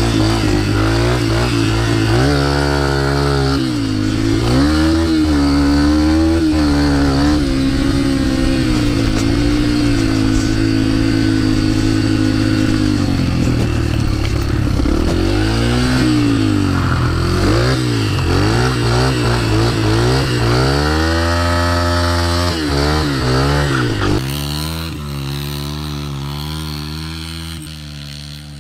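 Small dirt bike engine revving up and down again and again, with stretches held at a steady speed, fading away over the last few seconds.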